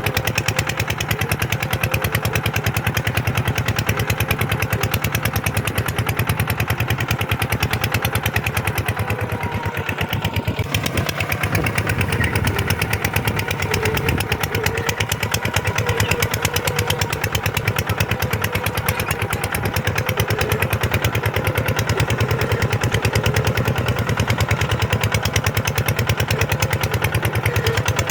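Kubota tractor's diesel engine running steadily with a fast, even clatter while pulling a plough through sandy ground.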